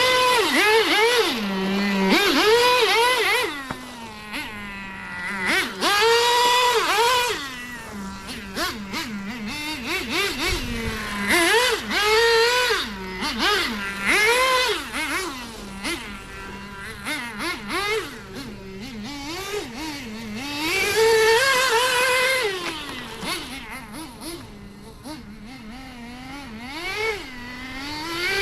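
Small nitro engine of a 1/8-scale HPI WR8 rally RC car, fitted with a custom exhaust, revving up and down over and over as the car is driven, its high buzzing pitch climbing and dropping every second or two.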